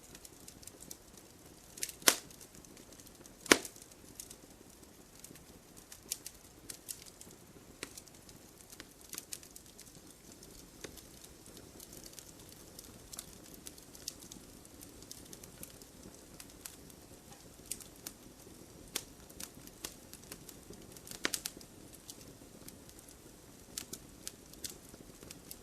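Firewood burning: irregular crackles and pops over a low, steady rumble of flame. Two louder pops come about two and three and a half seconds in.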